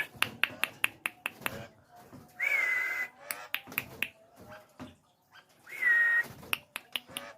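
Nias hill myna calling: a run of sharp clicks with two loud whistled notes, each hooking up quickly and then holding its pitch, the first about two seconds in and the second about six seconds in.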